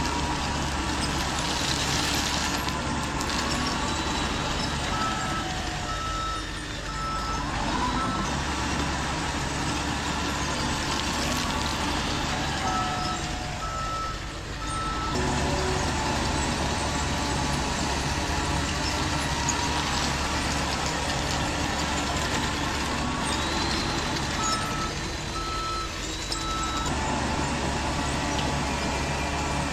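Heavy-truck engine sound running steadily, with a reversing alarm beeping in three separate stretches, typical of an RC dump truck's sound module while it backs up.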